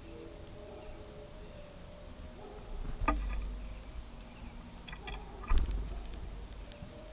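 Two knocks at an outdoor bird feeder, about three seconds and five and a half seconds in, each with a dull low thud, over a faint steady outdoor background.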